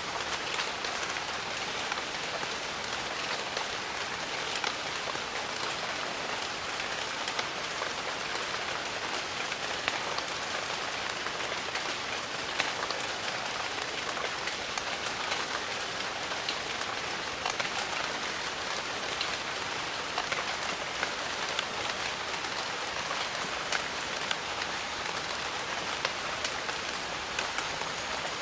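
Steady rain falling in a jungle, a dense even hiss dotted with the sharp ticks of individual drops hitting leaves and surfaces.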